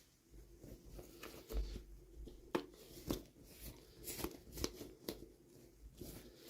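Hands unboxing small toys: packaging rustling and crinkling, with a run of sharp clicks and small taps, busiest in the middle.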